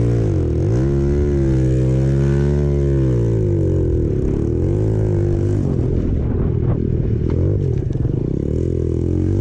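Apollo RFZ 125cc dirt bike's single-cylinder four-stroke engine riding under changing throttle: the pitch dips, climbs and holds, then drops and wavers, with a few clicks and rattles from the bike over rough ground.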